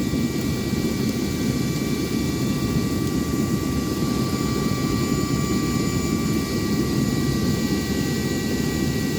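Torch burner of a small gold-smelting furnace running at full heat, a steady, even rush of flame with no break.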